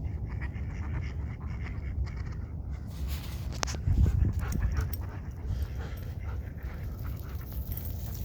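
A Belgian Malinois panting, over a steady low rumble on the microphone, with a louder knock about four seconds in.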